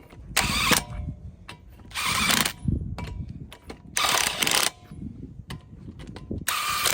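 Ratchet wrench snugging down wheel lug nuts: four short bursts of rapid ratchet clicking, about two seconds apart, with small clicks of the socket and nuts between them.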